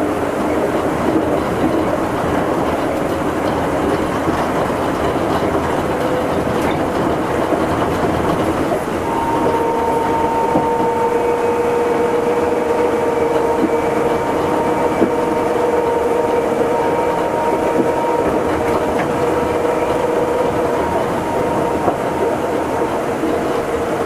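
Running noise inside an Astram Line 7000 series rubber-tyred automated guideway train under way: a steady rumble of the tyres on the guideway, with a steady whine that joins about nine seconds in.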